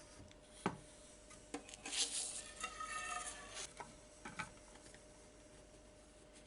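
Metal workshop parts being handled and set in place: a few sharp knocks, then a clinking, scraping rattle with a faint metallic ring for about two seconds.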